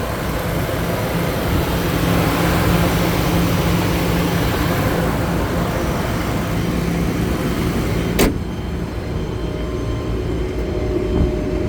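Ford F550 bucket truck's 6.8-litre gas V10 idling steadily, with a hiss over it. About eight seconds in there is a single sharp click, after which the hiss is much fainter.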